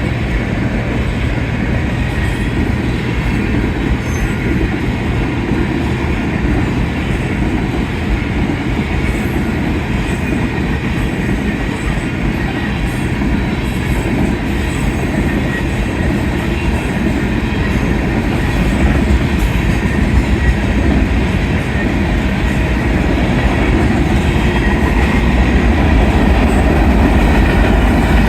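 Freight cars of a Union Pacific manifest train rolling past at speed: a steady rumble of steel wheels on rail with clickety-clack, growing a little louder near the end.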